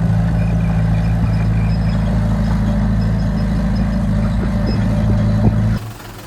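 Heavy diesel construction machinery running steadily with a deep, even engine hum. It cuts off abruptly near the end, leaving a quieter engine sound.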